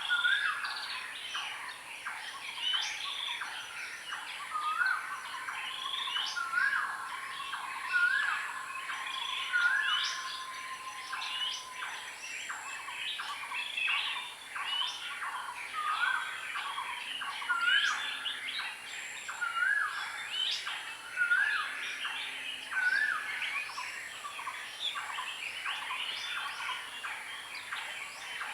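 A chorus of wild birds calling, with many quick chirps overlapping. One bird repeats a short upward-hooked note about every second and a half, and a long steady tone holds for about nine seconds in the first half.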